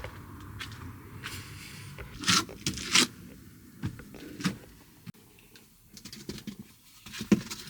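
Handling noises: rustling and scraping with a few sharp knocks and clicks, the loudest a couple of seconds in and near the end.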